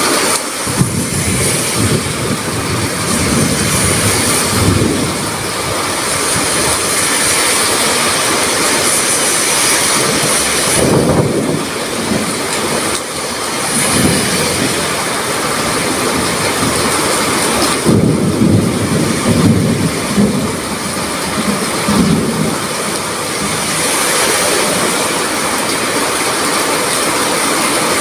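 Heavy rain pouring steadily in strong wind, with low rumbling swells rising and fading several times.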